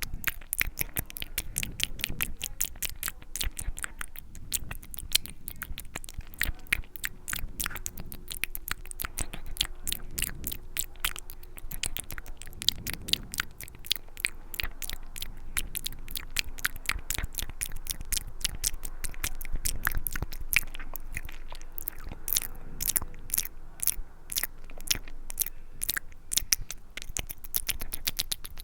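Close-miked ASMR mouth sounds: rapid wet clicks and smacks of lips and tongue, many a second, with no pause.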